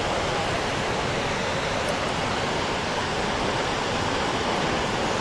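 Snoqualmie Falls rushing: a steady, even waterfall noise with no breaks.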